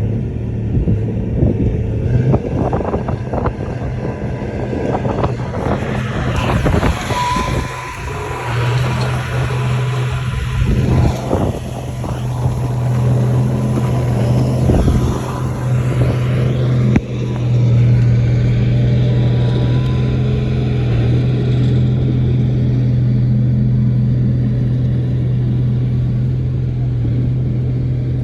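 Heavy crawler bulldozer's diesel engine running hard with a steady drone, with knocks and clanks over the first few seconds and a rushing noise in the middle. The engine gets louder about two-thirds of the way in.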